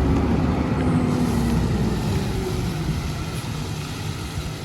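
Garbage truck engine running hard with a heavy low rumble and a steady low note. It is loudest at the start and eases off gradually.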